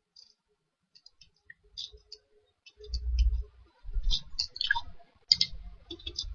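Computer mouse clicking, a scattered run of short sharp clicks, with a few low muffled thumps from the mouse and desk being handled.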